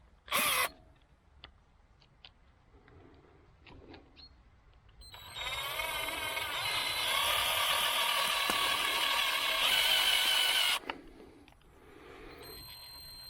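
Cordless drill running steadily for about five seconds as it drives a screw, starting about five seconds in and cutting off suddenly. A short loud sound comes near the start, with light clicks and taps before the drill starts.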